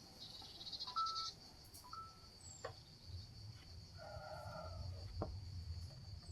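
Faint outdoor ambience: a steady high-pitched insect drone, with a brief rapid trill near the start, a few short bird chirps and a couple of light clicks.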